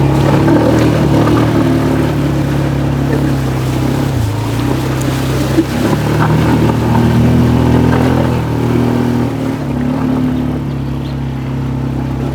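ATV engine running under throttle, its note dipping about four seconds in and then rising again.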